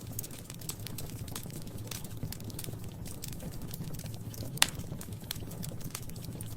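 Wood fire crackling in a fireplace: a steady low rumble of flames with irregular sharp snaps, and one much louder pop a little past the middle.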